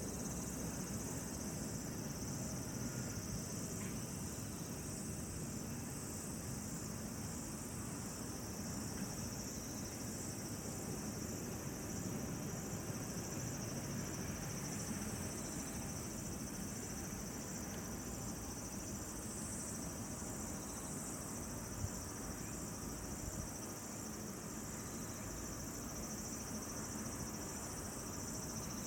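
A steady, high-pitched chorus of insects chirping, with a low ambient outdoor hiss beneath it. There is one short tick about three-quarters of the way through.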